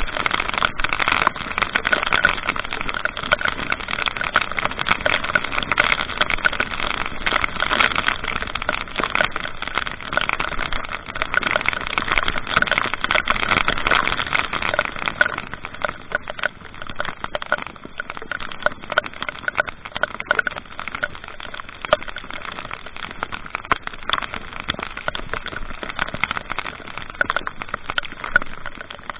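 A vehicle on the move: steady engine and road noise with many small scattered ticks, a little quieter in the second half.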